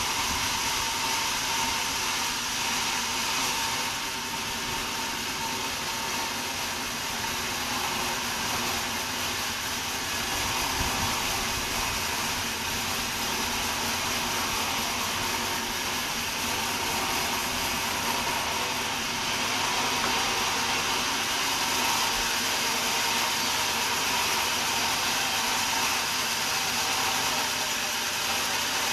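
Sawmill saw running steadily: an even hiss with a constant high whine, unchanged throughout.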